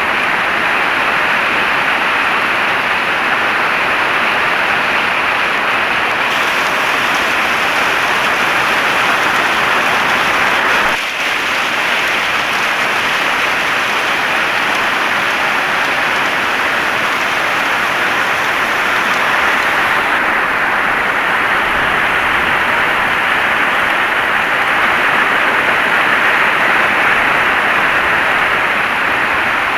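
Heavy rain falling steadily as a dense, even hiss, with a brief dip in level about eleven seconds in.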